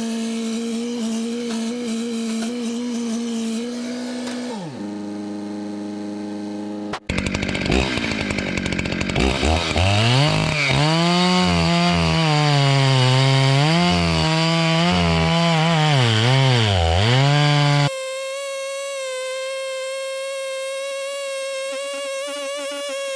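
Two-stroke chainsaw running at high revs, its pitch dipping and recovering again and again as the chain bogs down cutting through wood. The sound changes abruptly a few times, with a steadier high-revving stretch before and after the loudest cutting part.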